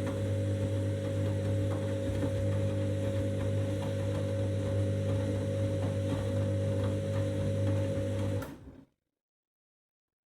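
Candy washing machine running in its main wash: a steady motor hum with a strong low drone and a few fixed tones above it. It cuts off abruptly about eight and a half seconds in, leaving dead silence.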